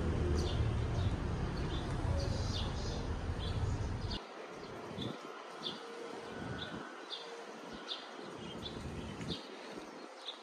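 A bird chirping over and over, short high chirps about two a second. A low rumble underneath cuts off suddenly about four seconds in.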